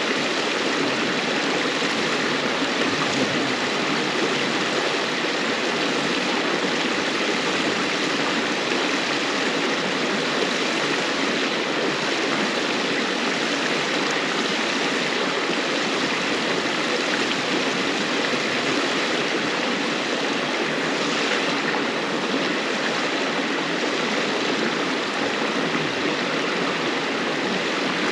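A river flowing, a steady, even rush of running water.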